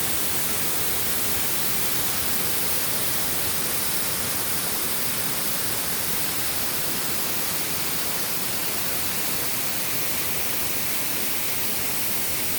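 Steady rushing of water from a waterfall or creek: a loud, even hiss with no change.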